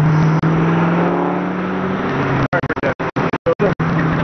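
Twin-turbo Camaro SS V8 running steadily at a low, even pitch. About two and a half seconds in, the sound cuts out several times in quick succession.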